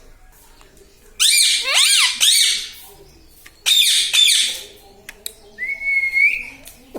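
Pet parrot giving loud, harsh calls in two bursts of several quick notes, then a single short whistle that rises slightly near the end.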